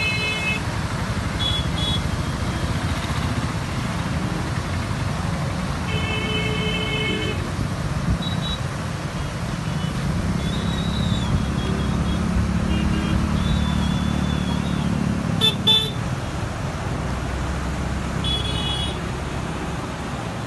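Vehicle horn honking for about a second, about six seconds in, with a few shorter toots later, over a steady low rumble.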